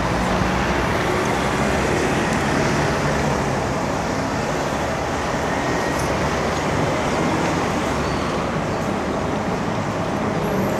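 Steady road traffic noise, with motor vehicle engines humming and tyres on the road, heard from a moving bicycle.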